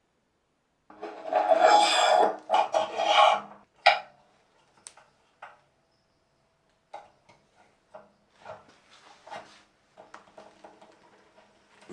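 Rough scraping or rubbing against a hard part for about three seconds, then a sharp knock, followed by fainter scattered rubs and clicks.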